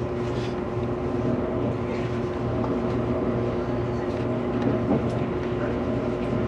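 Steady running noise of an E257 series limited express heard inside the passenger cabin: a constant hum over a low rumble as the train moves through a station.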